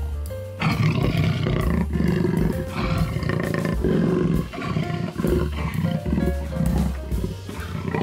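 Background music with a large animal's deep, rough calls over it, starting about half a second in and repeating with short breaks.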